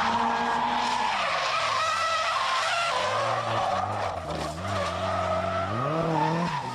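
Drift car sliding with its tyres screeching while the engine revs rise and fall, climbing steeply about six seconds in.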